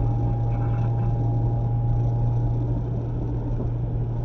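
Mazda MX-5 ND driving, heard from inside the cabin: a steady low engine drone over road noise, with a thin steady tone above it.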